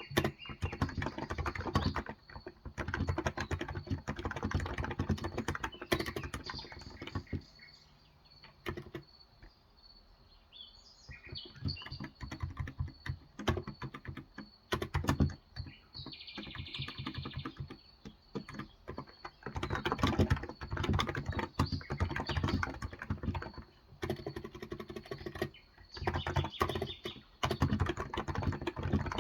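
Typing on a Cox Endeavor electrocapacitive (Topre-style) 35g tenkeyless keyboard: runs of rapid keystrokes broken by short pauses. Birds chirp in the background about eleven seconds in and again around sixteen seconds in.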